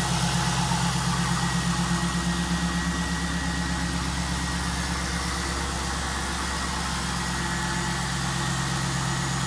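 2002 Pontiac Trans Am's 5.7-litre LS1 V8 idling steadily in the minute or so after a cold start, with a slight pulsing in loudness during the first few seconds.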